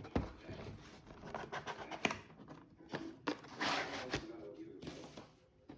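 Packaging being handled and opened: rustling, crinkling and sharp clicks of cardboard and plastic, with a longer rustle about three and a half seconds in.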